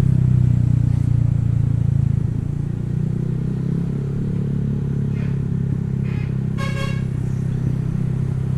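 Motorcycle engine running at a steady pace while riding, with a low, even drone. A brief high-pitched tone cuts in about two-thirds of the way through.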